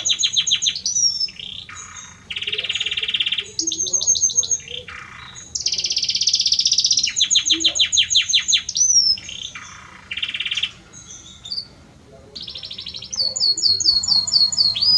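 Male Belgian canary singing to a hen: a continuous song of phrases a second or two long, alternating steady rolling trills with fast runs of sweeping whistled notes, separated by short pauses.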